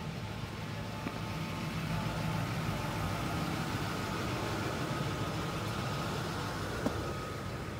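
A vehicle engine idling: a steady low hum that swells slightly and eases off again.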